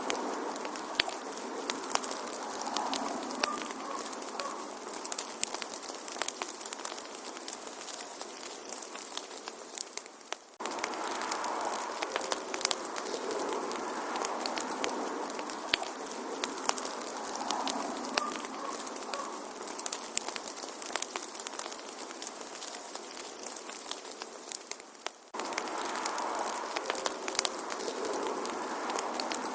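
Wood fire crackling, with frequent sharp pops and snaps over a steady hiss. The sound dips briefly and then cuts back in abruptly about ten seconds in and again near the end, as a looped recording does.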